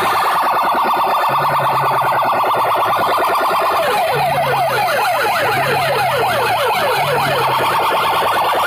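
DJ mix of siren and alarm-style effects played very loud through a competition sound system. A steady warbling high tone runs over a low bass note that pulses on and off, and about halfway through comes a run of quick falling pitch sweeps, several a second.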